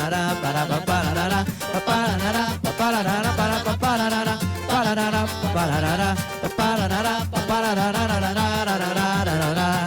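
Pagode band playing live: cavaquinho and pandeiro with samba percussion keeping a steady beat, and a melody running over it.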